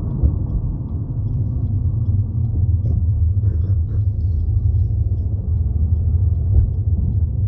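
Steady low rumble of road and engine noise inside a moving Chevy Malibu's cabin.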